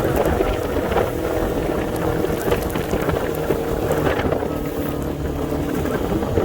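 Vehicle engine running steadily while driving, with a constant hum and road and wind noise.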